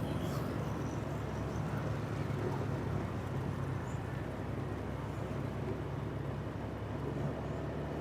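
Steady engine hum and road noise from a vehicle under way, holding an even level with no distinct events.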